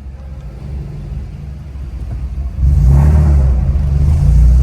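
Car engine and exhaust with a deep rumble, getting much louder about two and a half seconds in as the engine is revved.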